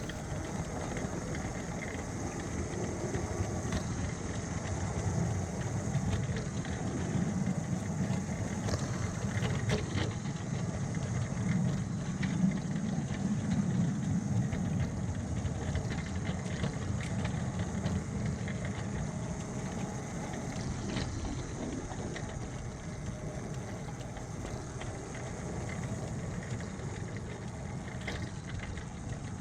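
A 7¼ inch gauge ride-on miniature train running along the track: a steady low drive drone that swells a little midway, with a few scattered sharp clicks.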